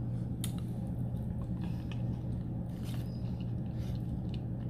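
A person chewing a mouthful of soft creamed spinach close to the microphone, with faint wet mouth clicks and smacks about once a second over a steady low hum.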